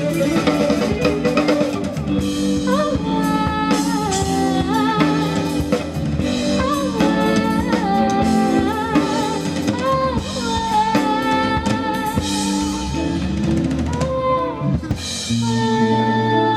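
Instrumental funk band music: a drum kit with kick, snare and rimshots, a bass line and chords under a lead melody that slides between notes, with no singing. The arrangement changes near the end, with a heavier bass note coming in.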